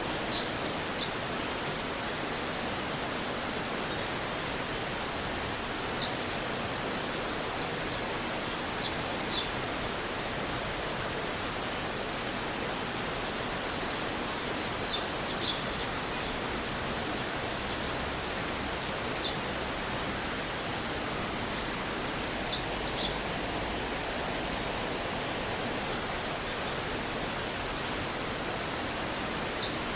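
A stream's rushing water runs steadily. Short high chirps in clusters of two or three recur every few seconds.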